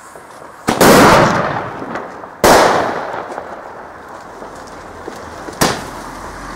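New Year's Eve fireworks: three loud bangs, the first two big with long echoing tails, a third sharper and shorter crack about three seconds later.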